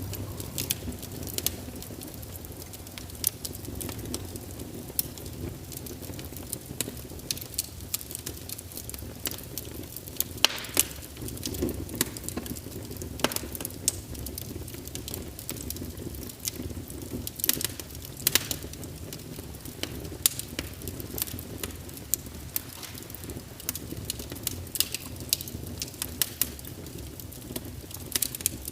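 Wood fire crackling in a fireplace: irregular sharp pops and snaps over a steady low rush of flames.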